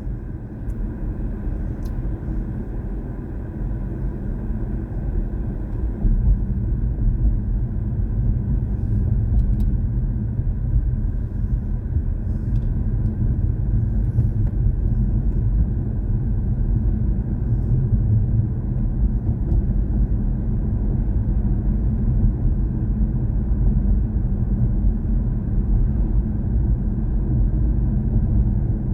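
Steady low road and tyre rumble of a BMW i4 M50 electric car driving along, with no engine note.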